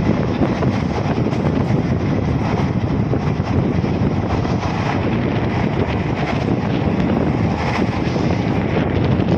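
Steady rushing noise of a moving vehicle, with wind buffeting the microphone.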